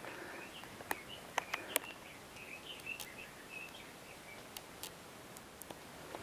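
A bird singing a run of short, high chirps over a steady outdoor hush, the song fading out after about four and a half seconds. A few sharp clicks stand out between one and two seconds in.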